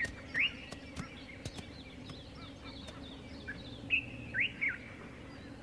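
Birds chirping: short, quick rising notes, one near the start and a cluster of three or four about four seconds in, over a steady low background hum.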